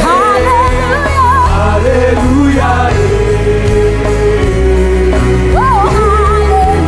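Live worship band playing loudly with heavy bass and a held chord, while a singer's wordless runs wander and bend over the top.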